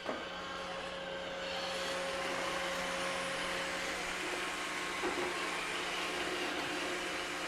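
iRobot Roomba 585 robot vacuum running, a steady whir that gets louder about a second and a half in. There is a short knock at the very start and another about five seconds in.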